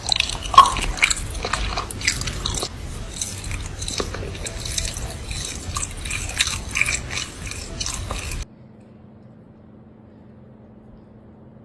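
An animal biting and chewing bananas with wet, crunching mouthfuls for about eight seconds. The chewing then cuts off abruptly to a faint steady hum.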